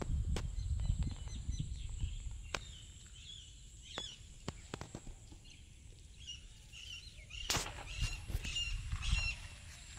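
Birds chirping in short, scattered calls, busiest about eight seconds in, over a low rumble, with a few sharp clicks.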